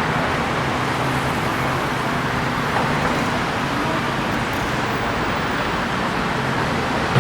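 Steady street traffic noise, with a low engine hum under the general rush of vehicles.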